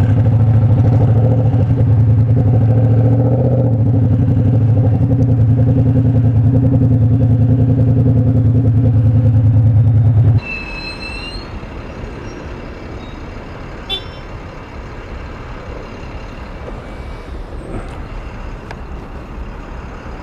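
Motorcycle engine idling steadily, then shut off suddenly about ten seconds in, leaving quieter street traffic noise. A short high-pitched tone sounds just after the engine cuts out, and there is a single click a few seconds later.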